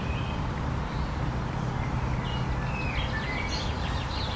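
Birds chirping faintly now and then, over a steady low outdoor rumble.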